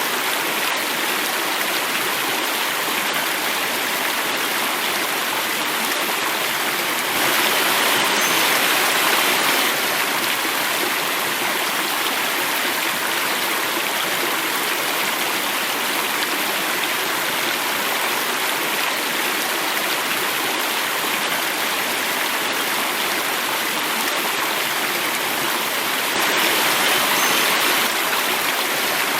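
Water flowing and falling in a small cascade: a steady rush that swells slightly twice, about a quarter of the way in and again near the end.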